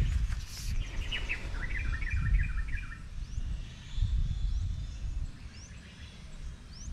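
Wild birds calling: a quick run of chattering notes about a second in, then a string of short rising chirps near the end. A low rumble runs underneath.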